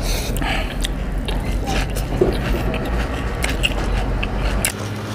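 Close chewing and biting of singju, a crunchy Manipuri salad eaten by hand, with many small crisp crunching clicks. A low rumble underneath stops near the end.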